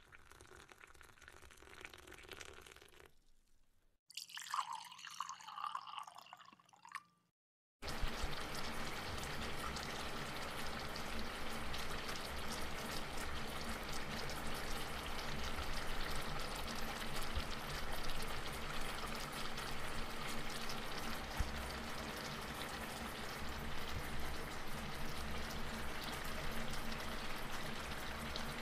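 Chicken pieces in a soy sauce and vinegar mix sizzling and simmering in a steel pan, a steady hiss that comes in suddenly about eight seconds in and holds to the end. Before that, only faint low noise.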